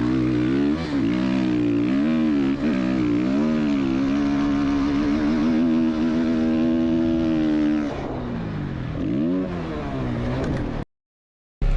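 Motorcycle engine revving up and down several times, held at high revs for a few seconds, then dropping and revving once more before the sound cuts off abruptly to silence near the end.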